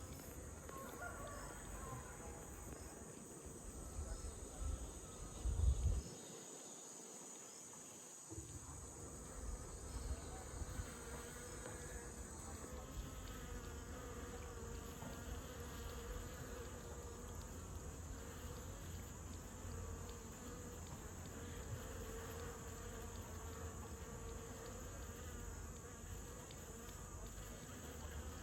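Steady buzzing hum of a wild honeybee colony nesting in a tree, many bees in flight at once, with a few thumps about five seconds in.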